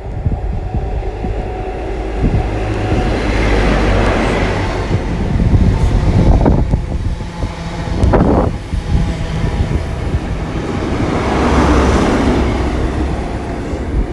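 GWR castle set, a short-formed HST, running past: the diesel engines of its Class 43 power cars drone steadily under the rumble of the coaches on the rails. The noise swells as the leading power car goes by and swells again near the end as the rear power car passes, with a couple of sharp knocks in between.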